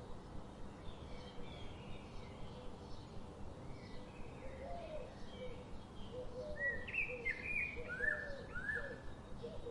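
Several songbirds chirping and singing, with a louder run of quick sweeping notes about seven to nine seconds in and a lower repeated call joining in the second half, over a steady low rush of flowing river water.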